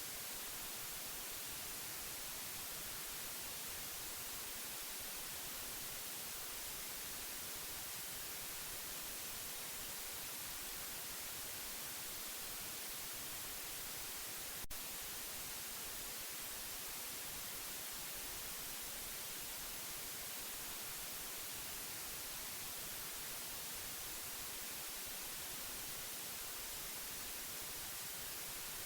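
Steady white noise: an even, unchanging hiss, brightest in the treble, with a single brief click about halfway through.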